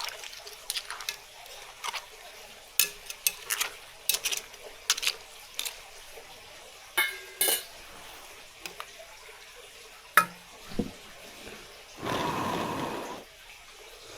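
Kitchenware clattering: dishes, pans and utensils clink and knock irregularly, with a noisy rush lasting about a second near the end.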